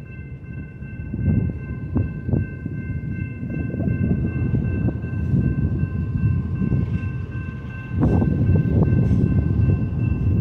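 Freight cars of a long double-stack container train rolling past: a steady rumble of wheels on rail with several sharp clanks, getting louder and loudest from about eight seconds in. Faint steady high-pitched tones run over the rumble throughout.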